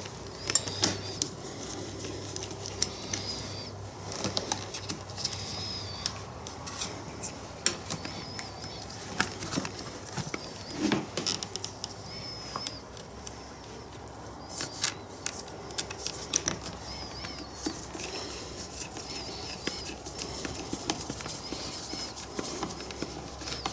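Scattered light metallic clicks and taps of a screwdriver and small terminal bolts as the cables are fastened to a motorcycle battery's terminals.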